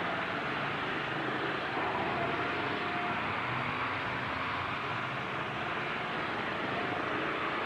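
Pickup-truck engines running in a demolition derby arena: a steady, dense din with a few short whining tones now and then.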